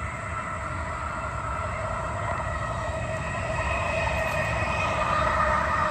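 Passenger train passing along the tracks: a steady low rumble under a whine of several held tones, growing slightly louder toward the end.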